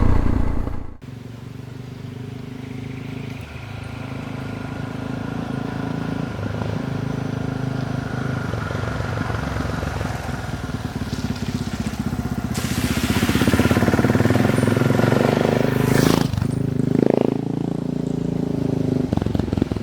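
Suzuki DR650's single-cylinder engine running at low speed, growing steadily louder, with a few seconds of hissing, crunching noise over it past the middle and a short rise in revs near the end.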